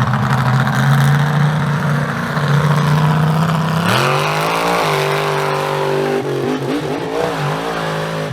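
Mega truck engine running hard, its pitch climbing about four seconds in, then rising and falling with the throttle as it revs.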